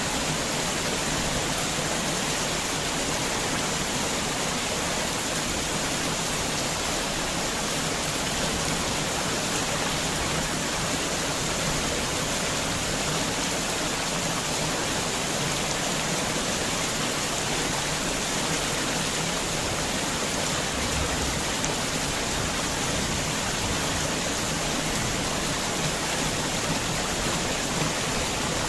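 Heavy rain falling steadily, an even, dense hiss of many drops.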